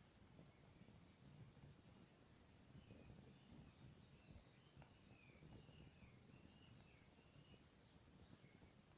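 Very faint outdoor ambience: a campfire burning with a low hiss and an occasional soft crackle, while small birds chirp faintly in a run of short calls in the middle.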